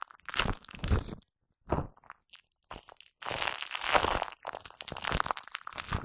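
Shaving foam being squished and worked right against a Blue Yeti microphone, a wet, sticky crackling in two long stretches with a pause of about two seconds between them.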